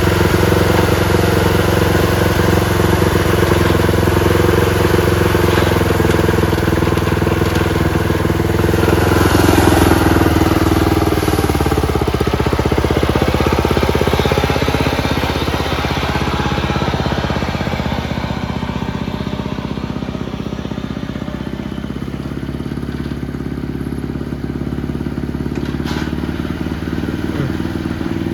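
Small gasoline engine of a lawn tractor running steadily, swelling in level about ten seconds in and easing off later, with one sharp click near the end. With no belt stop, the drive belt keeps spinning to the transmission while the engine runs.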